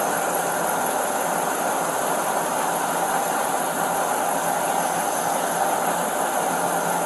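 Steady hum and hiss of an idling vehicle engine, even and unbroken.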